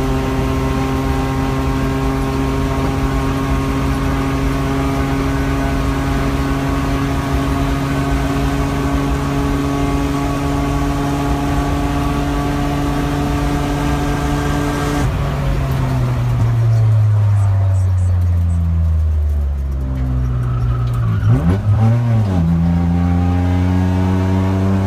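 A car's engine heard from inside the cabin at speed on a racetrack, held at steady high revs with heavy wind and road noise. About fifteen seconds in, the wind noise drops away and the engine note falls through downshifts with a few quick up-and-down revs, then it pulls again at lower revs out of the corner.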